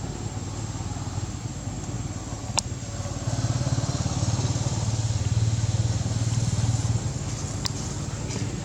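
An engine running steadily with a fast, even pulse, getting a little louder about three seconds in, with two sharp clicks.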